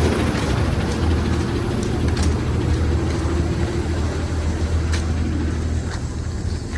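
A school bus engine idling steadily, with a few faint clicks over it.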